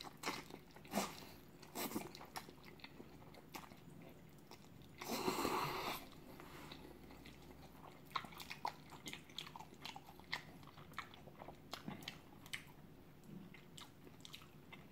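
Close-up mouth sounds of eating chewy cream jjolmyeon noodles: chewing with many small wet clicks, and one louder burst of about a second around the middle.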